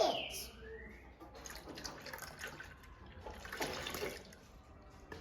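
Liquid being poured into a container, splashing and dripping, with a short rising pitch as it fills about a second in.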